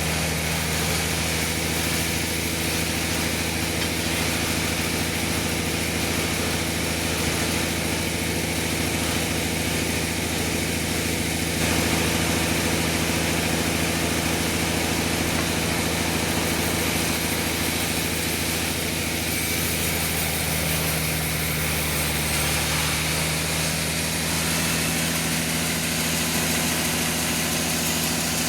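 Sawmill machinery running steadily with a constant motor hum, its pitch shifting slightly about twelve seconds in and again near twenty.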